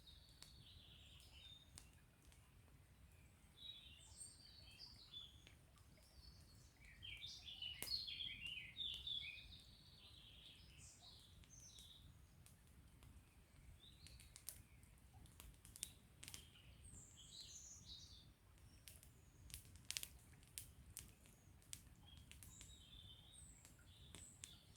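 Songbirds chirping and singing in quick, varied phrases, busiest about a third of the way in, over sparse sharp crackles of a wood fire and a faint, steady low rush of a small stream.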